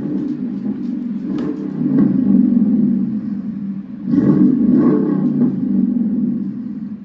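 Dodge 4.7-litre Magnum V8 running through a Flowmaster FX side-exit muffler, rumbling loud and swelling twice as it is revved, about two seconds in and again about four seconds in.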